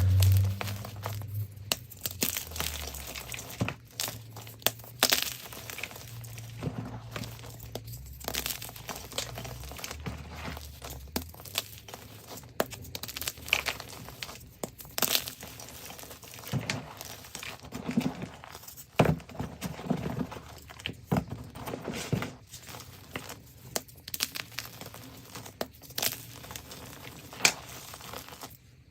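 Gym chalk being crushed and crumbled by hand, a dense run of irregular crunchy crackles and snaps.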